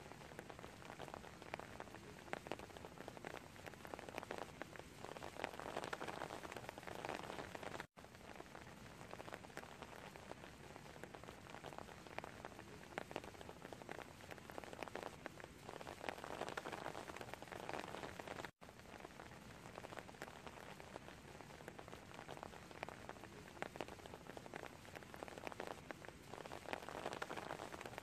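Rain falling on wet stone paving: a dense, steady patter of individual drops. The sound cuts out for an instant twice, about a third of the way in and again after two thirds.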